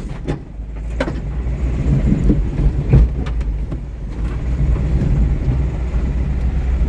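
Car being driven, its engine running with a steady low rumble; a couple of sharp clunks about one and three seconds in.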